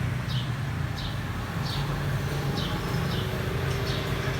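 A bird chirping repeatedly: short, high, falling chirps about once a second, over a steady low hum.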